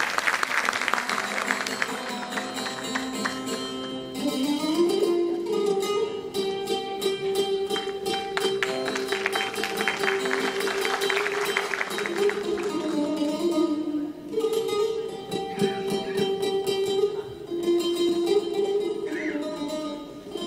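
Turkish folk music ensemble playing: strummed saz (bağlama) strings with a held melody line that comes in after about four seconds.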